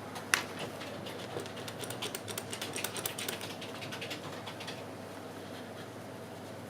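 Quick, light clicks and taps of small phone parts and tools being handled during an iPhone repair, with one sharper click right at the start and the clicking thinning out after about four seconds. A faint steady hum runs underneath.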